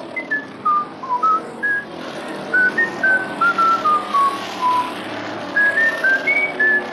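A person whistling a cheerful tune: a quick run of short, clear notes hopping up and down, over a steady hiss.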